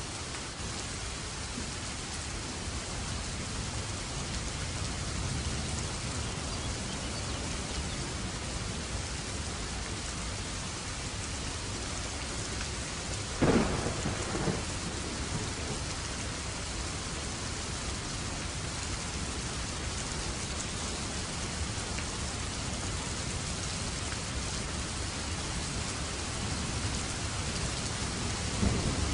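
Steady rain falling, with a sharp thunderclap about halfway through followed by a smaller crack a second later, and a low rumble of thunder starting near the end.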